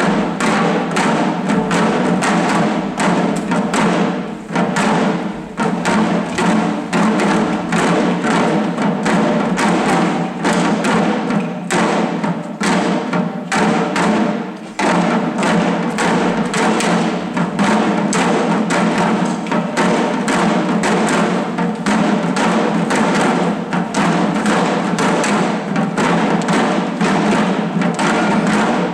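Shishi odori deer-dance drums, the small taiko worn by the dancers, beaten in a fast, continuous rhythm.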